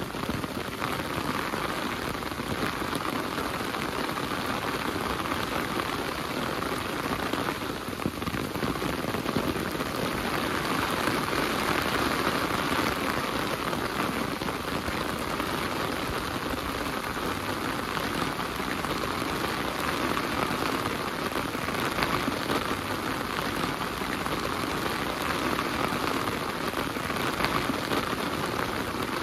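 Heavy rain falling steadily as an even hiss, with scattered sharper drop hits.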